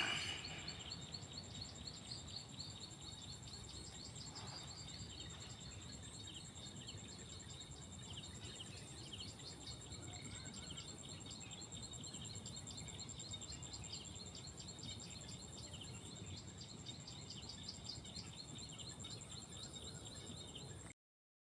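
Faint insect chorus: a steady high-pitched trill together with rapid repeated chirps, over a low, even background hiss.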